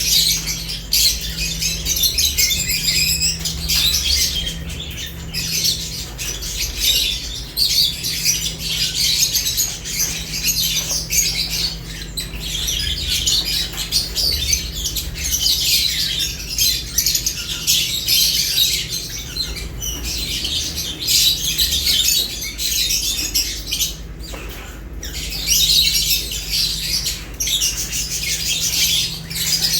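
A group of lovebirds chattering without pause, a dense run of high-pitched chirps and squawks, over a steady low hum.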